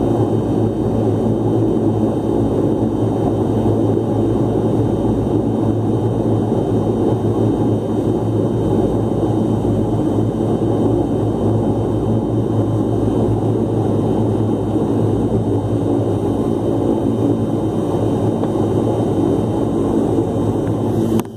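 Airliner's engines running steadily, heard from inside the passenger cabin as the aircraft taxis after landing: an even drone with a few steady tones.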